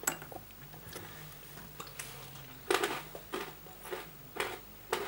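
A person chewing crunchy batter-coated peanuts (Lorenz Nic Nac's), the hard coating cracking in short crunches, about five of them in the second half.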